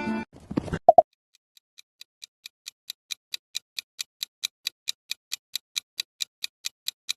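Clock-style countdown ticking from a quiz timer sound effect, about four to five ticks a second, fading in and then holding steady. It is preceded by two sharp clicks about a second in.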